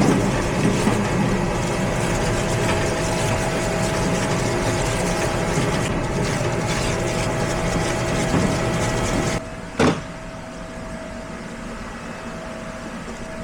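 A machine running steadily and loudly, which cuts off about nine seconds in. A single sharp knock follows, and a fainter steady hum carries on.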